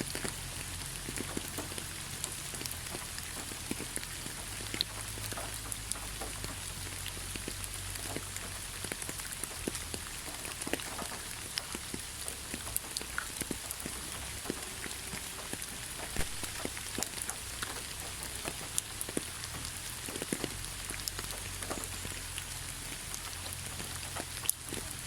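Heavy rain falling steadily: a dense, even hiss dotted with many separate drop ticks close by.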